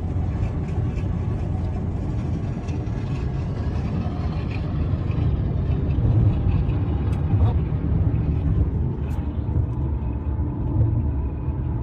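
Steady low rumble of a vehicle driving on the road, with a few faint clicks.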